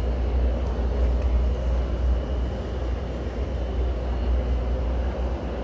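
Steady low rumble and hiss of a subway station platform, with a faint steady high tone running through it.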